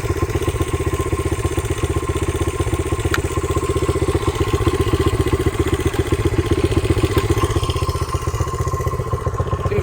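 1989 Honda XR100R's single-cylinder four-stroke engine idling steadily with a fast, even beat, and a single sharp tick about three seconds in.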